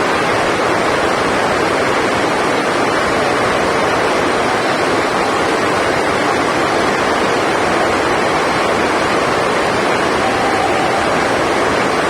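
Heavy rain on a roof: a loud, steady, even hiss with no breaks.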